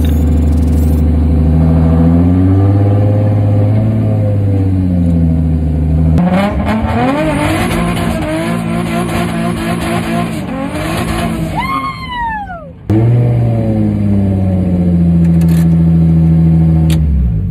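Drift car's engine running loud, heard from the driver's seat, its pitch rising and falling as the car is manoeuvred. It runs rougher with shifting pitch in the middle, gives a brief falling whine around twelve seconds in, then settles to a steady note that cuts off near the end.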